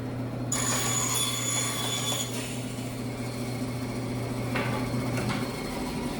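Old Craftsman bandsaw running: a steady motor hum, with a high whine over it for the first couple of seconds. The hum fades about five seconds in.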